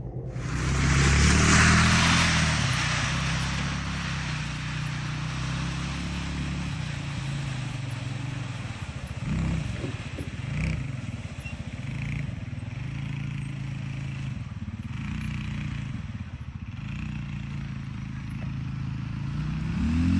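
A motor vehicle's engine running steadily, its pitch dipping and rising now and then. A loud rushing noise sits over it for the first two seconds or so.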